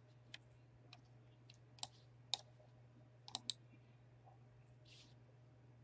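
Faint, irregular clicks of a computer mouse and keyboard, about nine in all, over a faint steady low hum.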